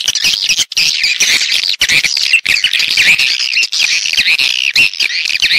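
Swiftlets twittering in a dense, continuous chorus of rapid high chirps: a swiftlet call recording of the kind played to lure the birds into nesting houses.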